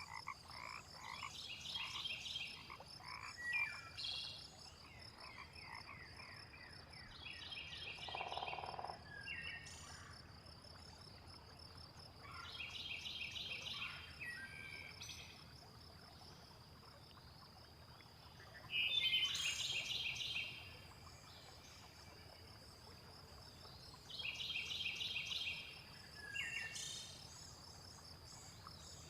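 Frogs croaking. A pulsed rattling call about a second long repeats every five or six seconds over a continuous high, pulsing trill, with one lower croak about eight seconds in and a few short falling chirps between the calls.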